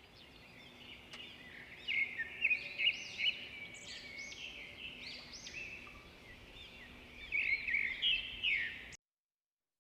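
Songbirds chirping and singing, many short overlapping high calls with louder bursts about two seconds in and again near the end, cutting off abruptly just before the end.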